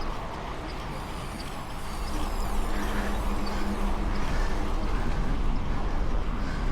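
Mountain bike rolling over a dirt road: steady rough tyre and frame rumble with wind on the action camera's microphone. A steady low hum joins in for a couple of seconds in the middle.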